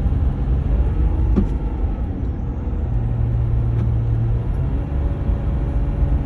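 A 2014 Ram 1500 EcoDiesel pickup driving at highway speed, heard from inside the cab: a steady low rumble of engine and road noise, with a low hum that holds for about a second and a half midway. The truck is being run hard to force a regeneration of its clogged diesel particulate filter.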